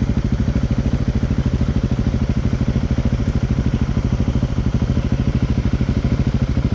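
Dirt bike engine idling steadily, with an even pulsing beat and no revving.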